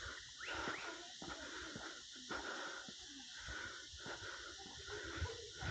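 Footsteps on a forest trail, a low knock about every half second, over a steady hiss of forest ambience. Two quick rising calls come about half a second in.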